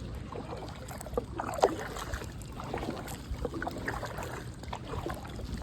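Kayak paddle strokes dipping and splashing in calm water, with a single sharp knock about one and a half seconds in.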